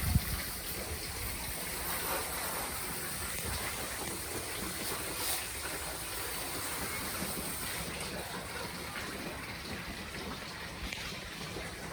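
Steady rush of running water, with no clear breaks.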